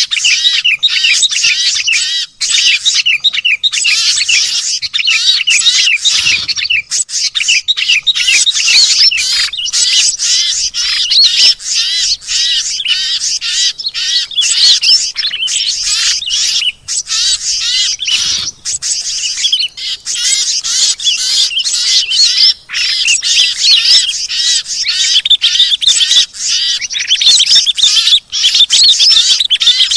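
Busy chorus of many small songbirds chirping and trilling over one another without a break, a mixed bird-lure recording made to draw wild birds down.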